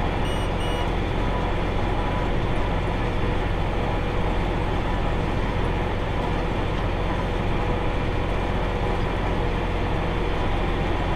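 Tractor pulling a round baler, running steadily with a constant low engine hum. Two short, high beeps sound right near the start.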